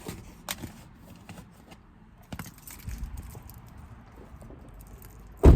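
Scattered light clicks and knocks of things being handled, then one short, loud thump near the end.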